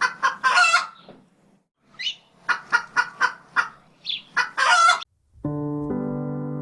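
Rooster crowing twice, each crow a run of short notes ending in a longer held one. Soft piano music begins about five and a half seconds in.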